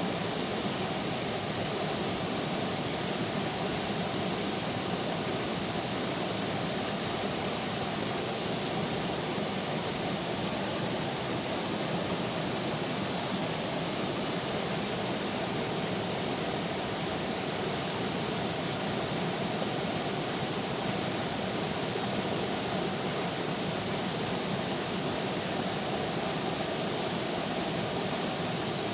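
River water flowing in a steady, even rush, with no change in level.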